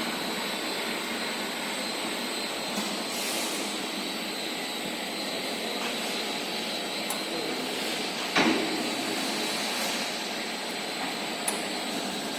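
Steady machine noise of a steel pipe induction annealing line running, a constant rushing sound with a faint high whine. A single sharp clank comes about eight seconds in, with a few light ticks.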